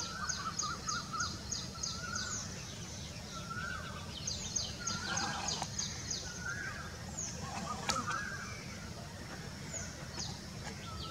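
Birds calling: rapid runs of high, falling notes, one at the start and another about four to six seconds in, with short lower warbled phrases repeating every second or two, over a steady low hum.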